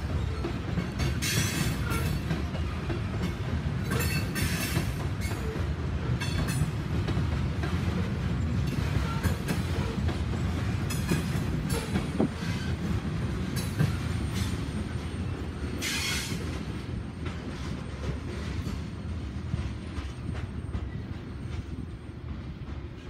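Freight train of covered hopper cars rolling past: a steady rumble of steel wheels on the rails, with short sharp squeals every few seconds. The sound dies away near the end as the last car passes.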